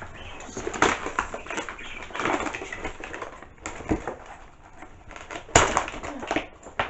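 Crinkling and rustling of plastic packaging as gift items are unwrapped, with a couple of sharper crackles about four and five and a half seconds in.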